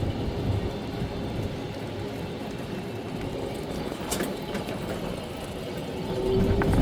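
A moving vehicle running: a steady low rumble with a faint steady whine, swelling slightly near the end, and a short click about four seconds in.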